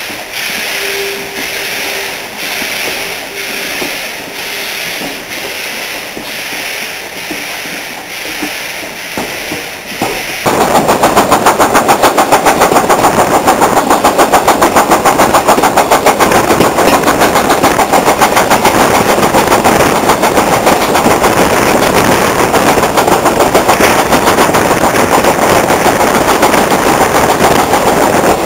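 Steam locomotive working hard, its exhaust beats at first moderate and steady, then about ten seconds in suddenly much louder and rapid, several beats a second.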